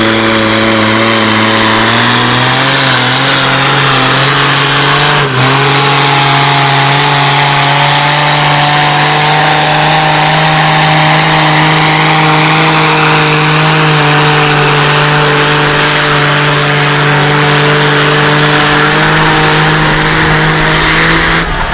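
Pulling tractor's engine running flat out at high revs under full load as it drags the weight sled down the track. The pitch sags slightly in the first two seconds, then climbs a little and holds steady, with one brief knock about five seconds in.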